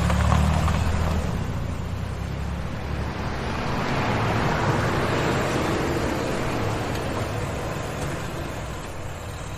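A car driving by: a low engine rumble at first, then tyre and road noise swelling to a peak near the middle and slowly fading.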